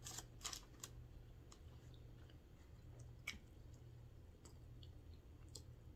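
A person chewing fries, faint, with a few short soft clicks and smacks, the sharpest about three seconds in, over a low steady hum.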